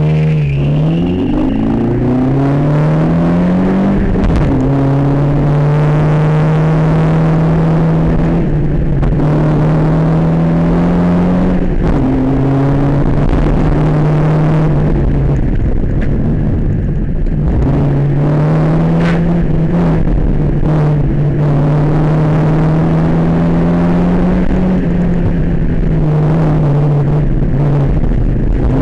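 Twin-cam Isuzu G200W four-cylinder engine with Delco fuel injection at full throttle from a standing start, heard from inside the car's cabin. The engine note climbs in pitch and drops back at each gear change as the car accelerates hard up the hill.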